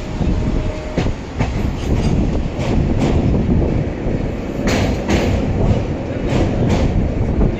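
Train running on the rails, heard from on board: a steady low rumble with the wheels clicking over rail joints, the clicks often coming in pairs a fraction of a second apart.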